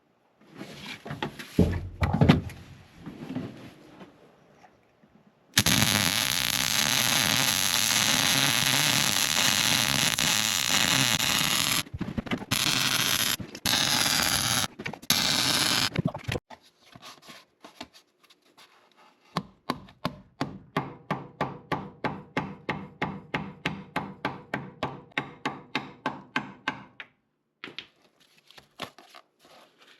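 Workshop tool noise: a few knocks at first, then a loud steady hissing tool sound that runs for about ten seconds with short breaks, then a rapid, even series of strokes, about four a second, that stops a few seconds before the end.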